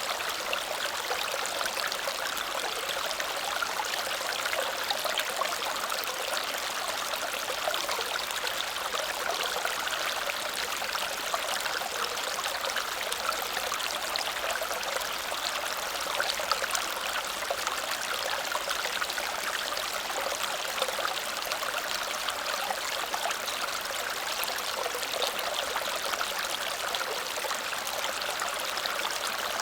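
Water cascading over a small waterfall, a steady splashing rush with a fine trickling texture and no pauses.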